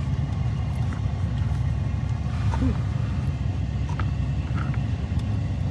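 A heavy truck camper crawling over a rough dirt road: a steady low rumble of engine and tyres, with a few light clicks.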